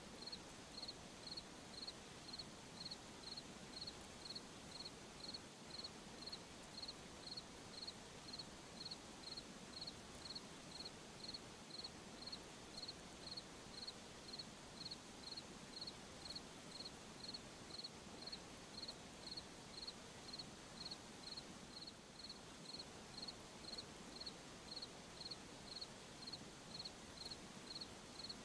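A cricket chirping steadily in a high, even pulse, about three chirps every two seconds, over a soft background hiss.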